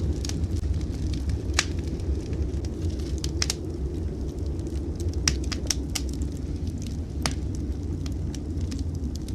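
Wood fire in a fireplace crackling, with sharp irregular pops scattered through, over a steady low rumble.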